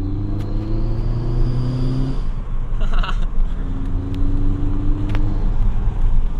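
Diesel engine pulling under acceleration, its drone rising in pitch, easing off about two seconds in, then pulling and rising again. A faint, thin rising whistle sits above the engine in the first couple of seconds, from the add-on exhaust-tip turbo whistle.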